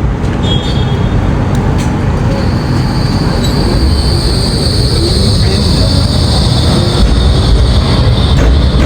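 Tram running close by with a heavy low rumble; a high, steady wheel squeal sets in about two and a half seconds in and holds.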